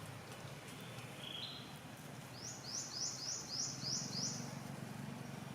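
A small bird calling: one short two-step note, then a quick run of about seven high, falling notes, over a steady low background rumble.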